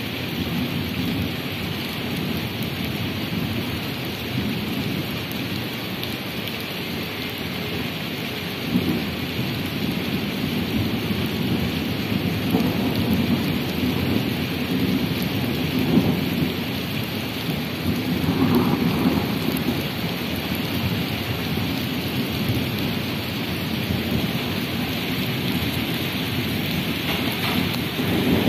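Heavy rain pouring onto a paved street and standing puddles: a steady hiss with a low rumble rising and falling beneath it.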